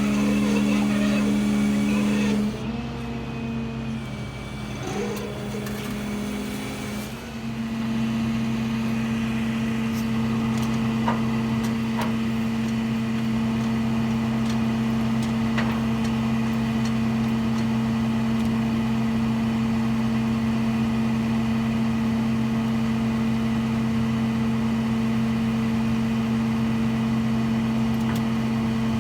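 A vehicle engine running at a steady speed with a constant hum. It goes quieter for a few seconds about two seconds in, then returns louder and steady from about seven seconds in, slightly higher in pitch.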